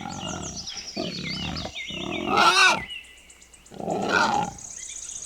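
Wild boar grunting and growling in four rough bursts, the loudest about halfway through, with high chirping over it.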